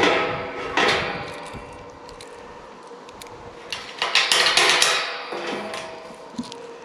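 Metal clanks and knocks with a ringing tail, in clusters at the start, about a second in, and again around four to five seconds in: exhaust pipe and clamp hardware being worked into place.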